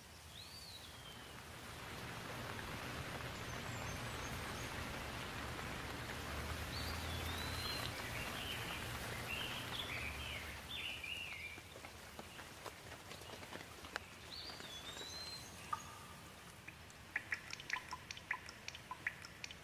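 Steady rain falling, its hiss swelling over the first few seconds and easing after about twelve seconds, with a few short bird chirps. Near the end comes a run of sharp drips and taps.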